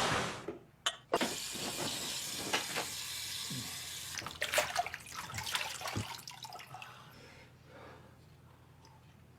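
Water running with a steady hiss, like a tap or shower, starting about a second in after a single click. A few knocks land around the middle, and the sound thins out near the end.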